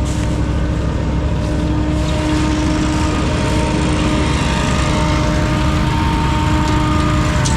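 Lawn-care power equipment engine running steadily at a constant speed, a held engine tone over a steady rush of noise.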